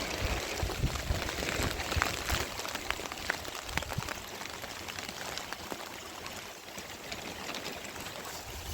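Steady rain falling, with many short sharp drop ticks over a continuous hiss. There are low thumps over the first few seconds.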